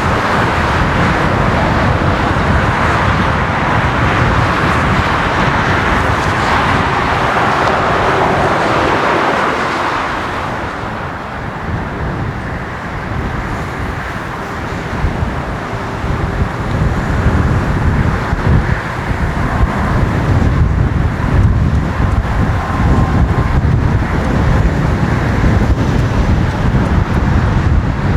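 Jet airliner engine noise. A Boeing 787-9's engines give a steady roar for about ten seconds. There is then a cut to a four-engined Airbus A340-300, whose low rumble builds up toward the end.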